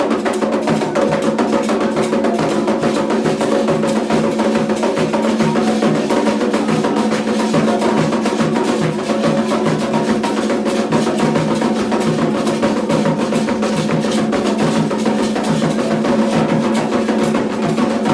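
Candomblé ritual drumming: hand drums playing a steady, driving rhythm of dense, repeated strikes, over a sustained pitched layer.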